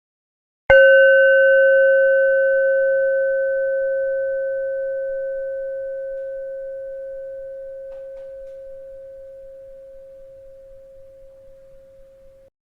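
A bell struck once, about a second in, ringing with a strong low tone and a few fainter higher overtones. The ring fades slowly for about twelve seconds and is cut off abruptly near the end.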